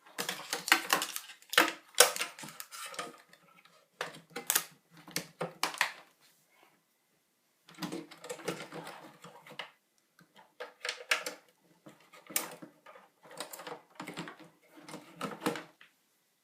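Quick clicking and rattling of plastic and metal computer parts being handled during iMac G4 reassembly, in clusters of knocks with short pauses and a gap of about two seconds near the middle.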